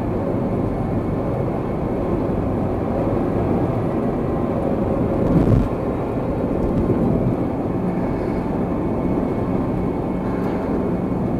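Steady road and engine noise of a moving car, heard from inside the cabin, with one brief thump about halfway through.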